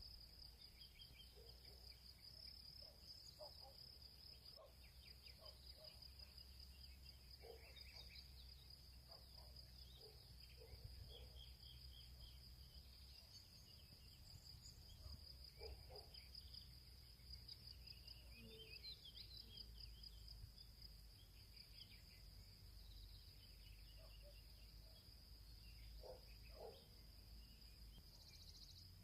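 Faint field ambience: insects, likely crickets, trill steadily at a high pitch while birds chirp and call here and there. A low rumble sits underneath.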